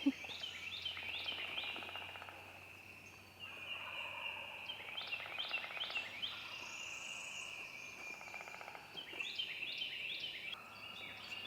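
Wild turkey gobbler gobbling about three times, each a fast rattling call lasting about a second, with songbirds singing throughout. The birds are still up on the roost.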